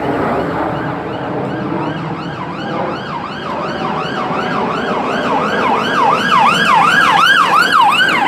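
Emergency vehicle siren in a fast yelp, about three sweeps a second, coming in about two seconds in and growing louder over a background of traffic and outdoor noise.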